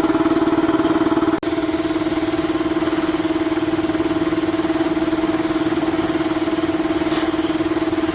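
A small engine or motor running steadily at a constant speed: a steady hum with a fast, even pulse. It cuts out for a split second about a second and a half in.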